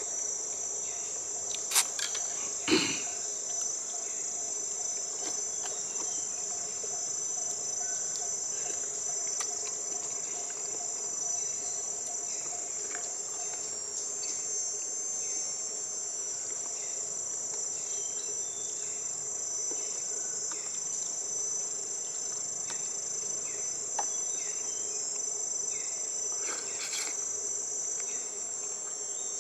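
Steady, high-pitched chirring of an insect chorus, with a fainter lower drone under it through the first half. Two sharp knocks stand out about two and three seconds in.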